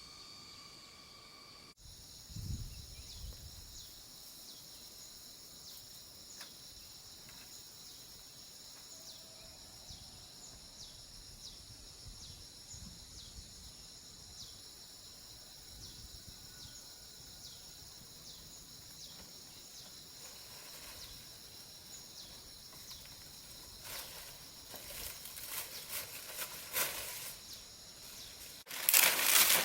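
Outdoor insect chorus: a steady high-pitched drone of crickets or cicadas with a repeating chirp. Near the end, dry crackling and rustling builds up and grows much louder.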